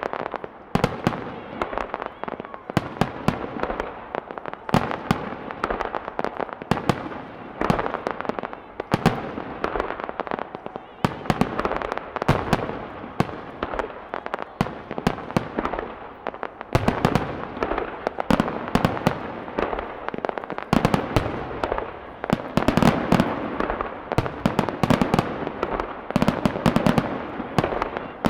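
Aerial fireworks going off in a dense, continuous barrage: many sharp bangs in quick succession with crackling and rumbling echo between them. It is the sound of a large display heard from about 300 m from the launch site.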